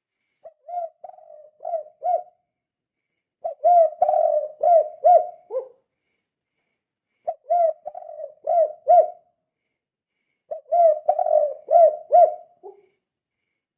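Spotted dove (tekukur) cooing in the 'kuk 2' song style, four phrases of several quick coo notes each, about every three seconds.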